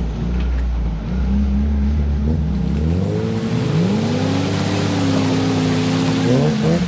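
UAZ off-road vehicle engine revving under load while pulling a stuck vehicle out on a tow strap. It runs low and steady at first, climbs in pitch about three seconds in and holds there, then rises again briefly near the end.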